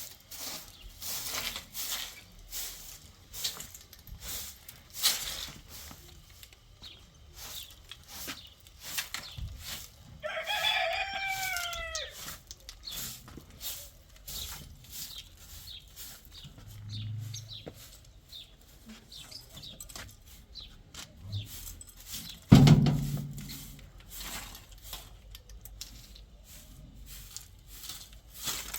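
A rooster crowing once, a single call of about two seconds that falls in pitch at its end, about ten seconds in. Around it are scattered small clicks and knocks, and about two-thirds of the way through comes one sharp loud thump.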